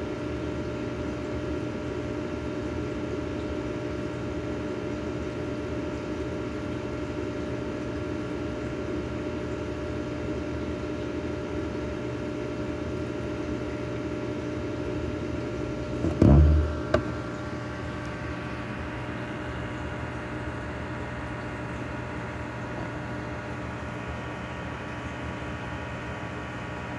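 Steady hum of an aquarium pump, with a single loud, low thump about two-thirds of the way through.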